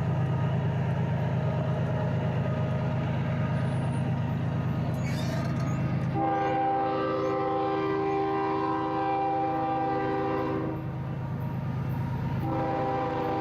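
Diesel freight locomotive sounding its multi-note air horn twice: a long steady chord for about four and a half seconds, a short gap, then a second blast starting near the end. Under both blasts is the steady low rumble of the locomotive engine and the passing train.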